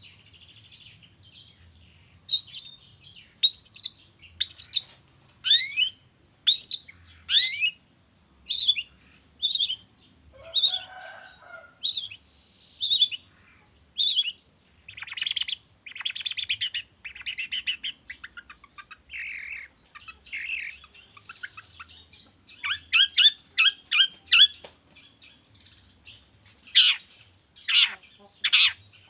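Long-tailed shrike (cendet) singing. It gives a series of sharp sweeping whistled notes about one a second, then harsher buzzy phrases, a quick run of short notes, and a few long sweeping calls near the end.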